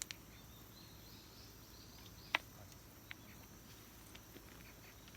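Faint steady chirring of crickets or other insects, with a few sharp clicks; the loudest click comes a little over two seconds in.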